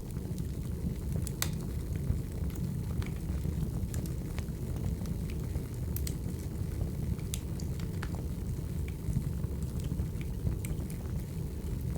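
Wood fire crackling: a steady low rush of burning logs with irregular sharp pops and snaps, a few each second.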